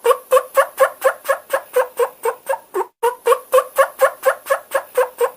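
Turkey calling: a fast run of short, pitched notes at about four to five a second, repeated as two runs of about three seconds each with a brief break between them.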